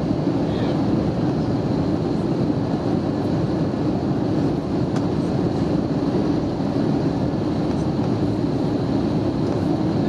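Steady cabin noise inside an Airbus A320neo in flight: the Pratt & Whitney PW1127G turbofans and the air rushing past the fuselage make an even, low rumble.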